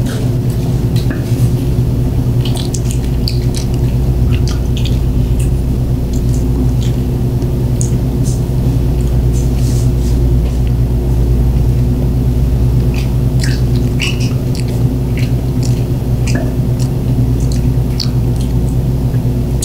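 Close-miked eating sounds: wet chewing and lip smacking as sushi is eaten, a scatter of short, irregular smacks and clicks. A steady low hum runs underneath.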